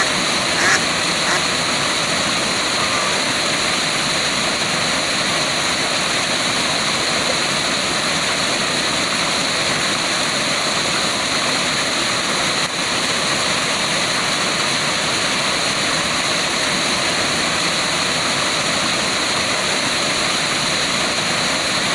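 Waterfall rushing steadily, an even roar of falling water, with a couple of brief calls in the first second or so.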